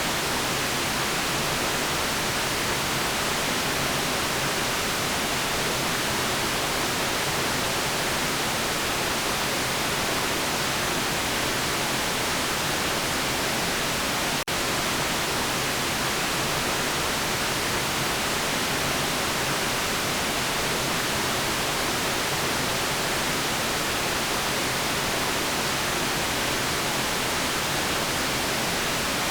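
Steady, unchanging white noise hiss, spread evenly across the whole range and brightest in the highs, with a momentary dropout about halfway through.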